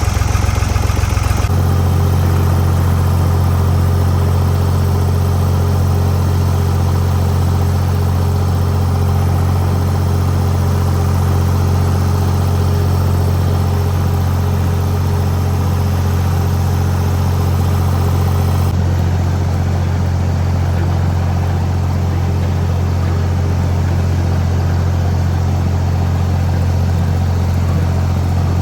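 Farm tractor's diesel-type engine running at a steady speed under way, a loud, even low drone with a slight change in its note about a second and a half in.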